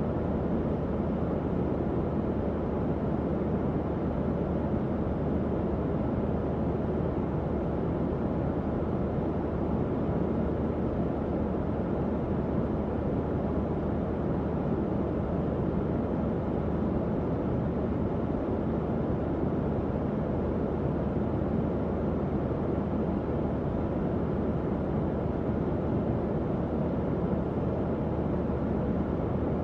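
Tower fan running steadily: a constant low, whooshing rush of air with a faint steady hum beneath it.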